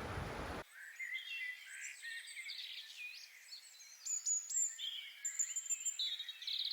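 A brief rushing noise that cuts off abruptly under a second in, then several songbirds singing: a busy mix of short chirps, whistles and trills.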